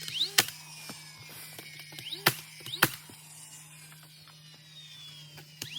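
Sharp knocks from carpentry framing work: one about half a second in and two close together a little past two seconds in, over a steady low hum.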